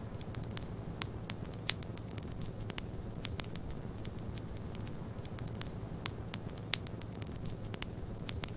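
Wood fire crackling in a fireplace, with frequent irregular sharp pops and snaps, two of them louder than the rest. Underneath runs a steady low rush of snowstorm wind.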